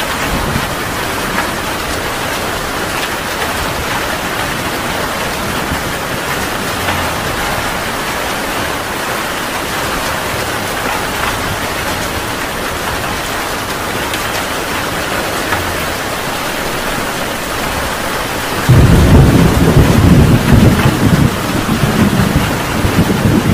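Steady heavy rain, then a loud rolling thunderclap breaks in near the end and rumbles on with rising and falling peaks.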